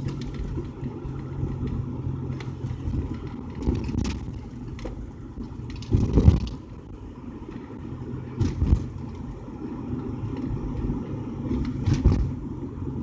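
Car engine and tyre noise heard from inside a moving car's cabin, a steady low hum, with a few short thumps, the loudest about six seconds in.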